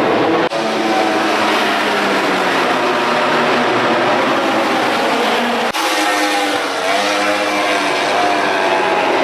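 MotoGP racing motorcycles' four-cylinder engines running at high revs on track, pitch rising and falling as they accelerate and shift. The sound cuts off abruptly about half a second in and again about halfway through, where the footage changes.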